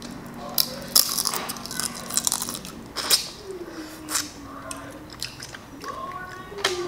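Close-miked chewing and wet mouth sounds of someone eating crab leg meat, with sharp clicks scattered through. A low hummed "mm" comes about halfway.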